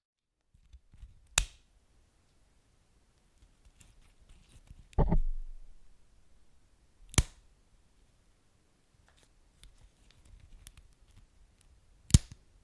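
Wood fire crackling: faint scattered crackles broken by four sharp, loud pops spread a few seconds apart.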